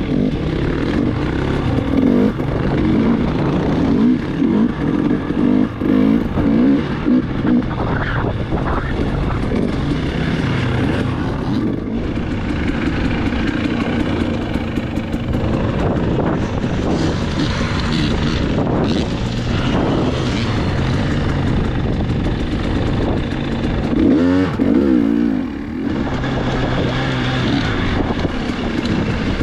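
Dirt bike engine running under load while being ridden, its pitch rising and falling with the throttle and gear changes, with rushing wind on the microphone.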